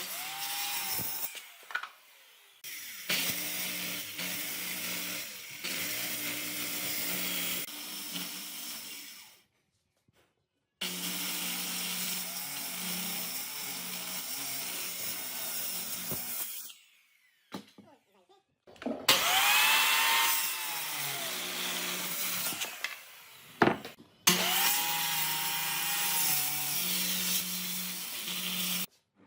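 Electric power tool working wood in five separate runs of a few seconds each, with short pauses between. Its motor whine bends in pitch as each run starts and takes load.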